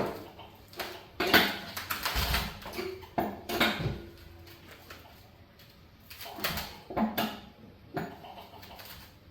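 Metal tool clinking and scraping against the water heater's 3/4-inch pipe fittings as they are tightened, in irregular knocks several times over.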